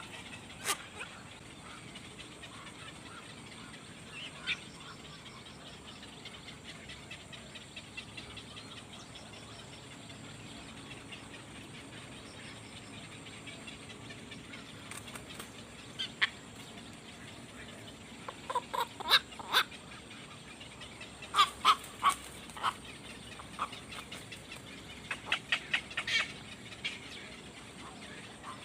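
Birds calling in short bursts of quick chirps, in several clusters through the second half, over a faint steady hiss.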